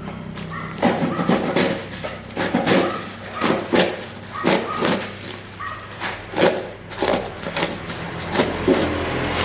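A series of sharp knocks, about one to two a second and unevenly spaced, some with a brief metallic ring, like a hammer or tool striking during repair work.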